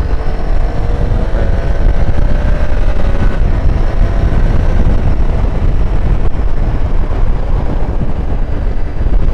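Triumph Tiger 800's three-cylinder engine pulling hard under acceleration, its pitch rising over the first few seconds, under a heavy rumble of wind on the microphone.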